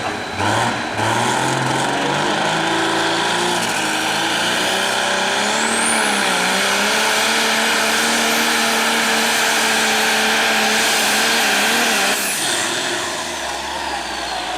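Hot stock pulling tractor's turbocharged diesel engine at full throttle on a pull: the engine note climbs in several steps over the first few seconds, then holds high with a high turbo whistle rising and staying on. About twelve seconds in the throttle comes off, the sound drops and the whistle winds down.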